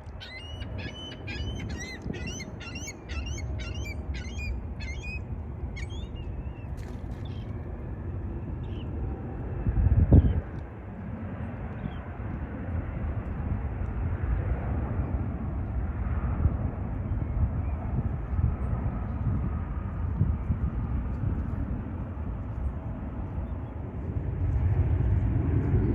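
A bird calls in a quick run of short chirps, about three a second, for the first five seconds, over a steady low rumble. A single low thump comes about ten seconds in, and the rumble grows louder near the end.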